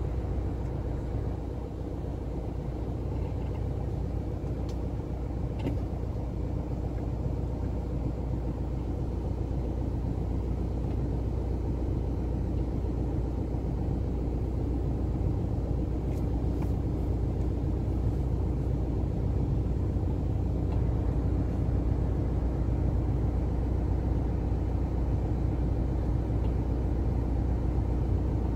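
Car engine running at low speed as the car creeps along behind a walking animal, heard from inside the cabin: a steady, deep, even sound with no revving.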